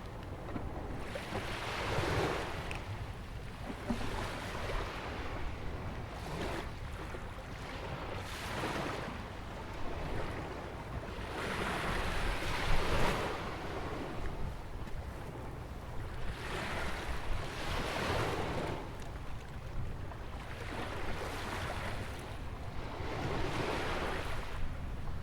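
Ocean waves breaking and washing against a rock jetty and the sandy shore, a fresh surge of surf every few seconds, with the loudest wash about halfway through. Wind rumbles on the microphone underneath.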